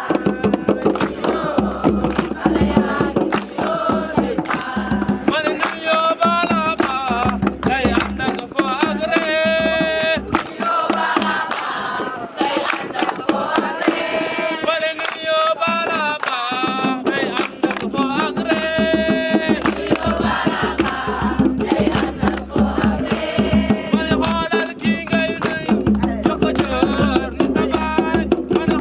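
A group singing a song over a steady percussive beat, the voices holding long wavering notes now and then.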